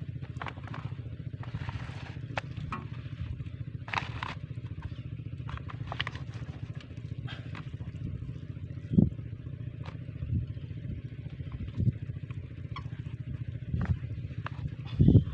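Small diesel engine driving a water pump, running steadily, with scattered clicks and knocks over it.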